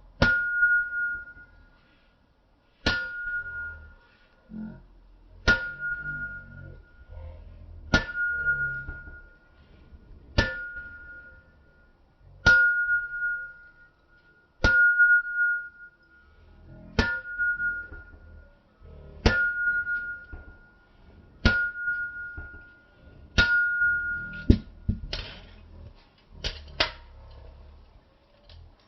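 Hammer blows on metal at an anvil, one about every two to two and a half seconds, each leaving a clear ringing tone. Near the end come several quicker, duller strikes without the ring.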